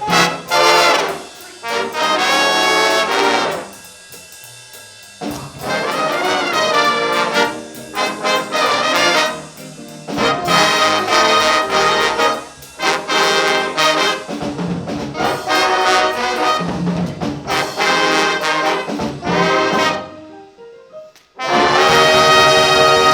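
Big band horn section (trumpets and trombones) with drum kit playing swing jazz: punchy ensemble chords in short blasts with brief stops between them, a short break near the end, then one long held full-band chord.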